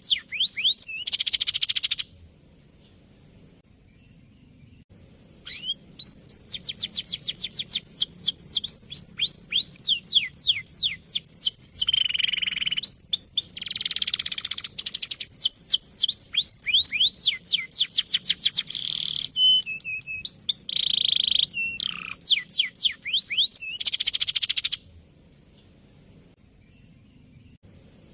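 Male domestic canary singing long, fast rolling trills of rapidly repeated downward-sweeping notes. The song breaks off a couple of seconds in, resumes after a pause of about three seconds, and pauses again near the end.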